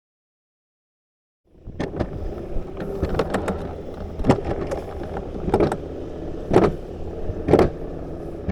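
Alpine coaster sled running on its steel track: a steady low rumble with a sharp clack about once a second, starting about a second and a half in.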